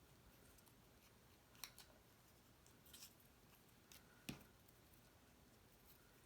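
Near silence with a few faint, short taps and clicks from handling paper card pieces and crafting tools, the loudest about four seconds in.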